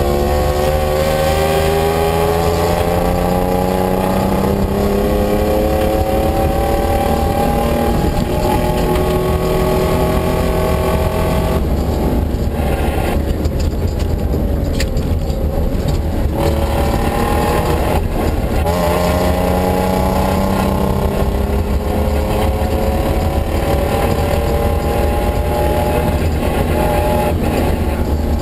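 Rally car engine, heard from inside the cabin, pulling hard through the gears on a dirt stage: the revs climb in long rising sweeps that drop back at each gear change. About a third of the way in the revs fall away twice, then the engine climbs through the gears again, over a steady rush of road noise.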